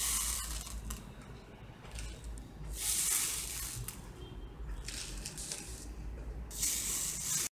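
Dried green gram (mung beans) stirred by hand and poured in a steel plate: four separate hissing rustles of shifting beans, each about a second long, cutting off abruptly just before the end.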